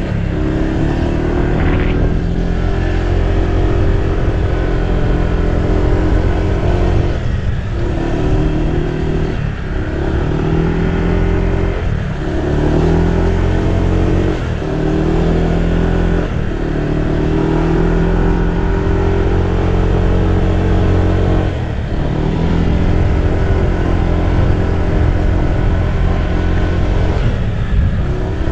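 Car engine running with road noise while driving. The engine note dips and changes pitch several times, as when shifting gear or easing off and accelerating again.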